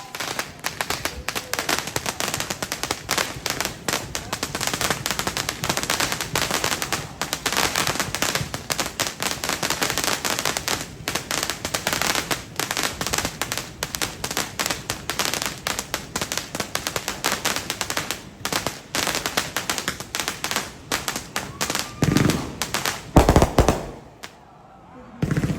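Fireworks going off: a dense, rapid crackle of many small pops for about twenty seconds, followed by a few louder, deeper bangs near the end.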